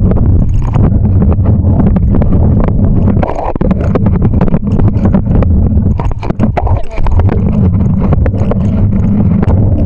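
Loud, steady wind rumble on the microphone from riding a bicycle, with frequent rattling knocks throughout.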